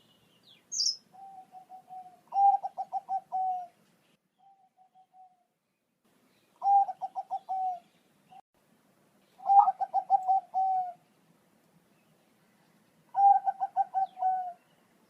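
Zebra dove (a Thai-bred 'Bangkok' perkutut) cooing: four loud, rapid pulsed coo phrases, each about a second long and coming every three to four seconds, with softer coos between. A brief high chirp sounds near the start.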